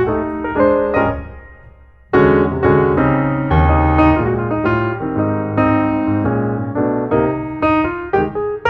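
Background piano music: a phrase fades out about two seconds in, then a new, fuller passage of chords and melody starts abruptly.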